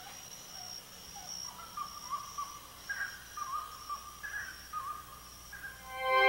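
Faint rainforest ambience: a bird gives short whistled calls over and over, about one a second, over a steady high thin tone. Music swells in near the end.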